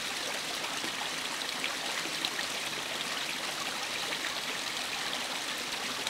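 Steady rush of a flowing stream, with a few short, sharp call notes of a Eurasian wren (its 'chet' contact calls) about two seconds in.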